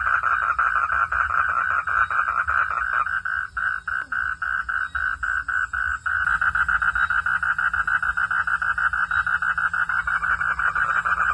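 A night chorus of frogs calling in a rapid, steady pulsing rhythm. The pulses thin out with short gaps between them for a few seconds in the middle, then the dense chorus comes back.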